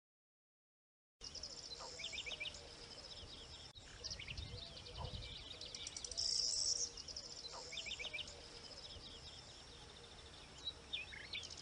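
About a second of silence, then an outdoor ambience of small birds singing and calling: short repeated chirps and trills, with a louder buzzy high trill about six seconds in.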